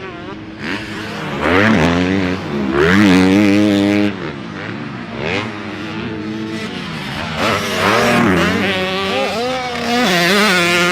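Racing engines revving hard, their pitch climbing and dropping again and again as they shift through the gears, loudest about three seconds in.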